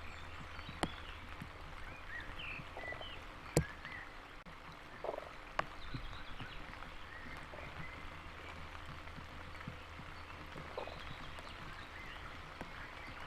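Frogs croaking in a wetland, a few short calls spread across the stretch, with faint bird chirps. A few sharp ticks of raindrops hitting the microphone punctuate it.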